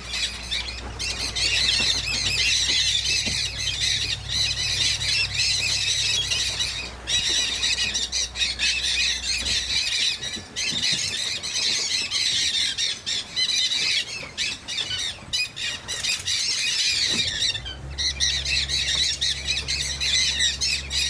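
A large flock of parrots, mealy amazons among them, squawking and screeching in a dense, overlapping din with only brief lulls. A low steady hum underneath stops about halfway through and comes back near the end.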